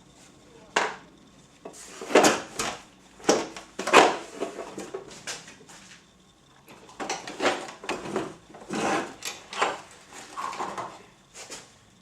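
Irregular knocks and clinks of metal hand tools and parts being handled and set down, in clusters with a short lull midway, during work on a motorcycle's steering head bearings.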